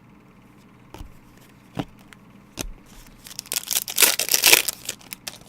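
A few light clicks and knocks, then about a second and a half of loud tearing and crinkling: a trading-card pack wrapper being torn open.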